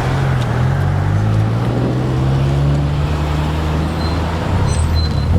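Four-cylinder engine of a 2008 Honda Civic Si with an aftermarket exhaust, heard from inside the car, running at low revs while creeping along. It is a steady low drone that wavers slightly in pitch.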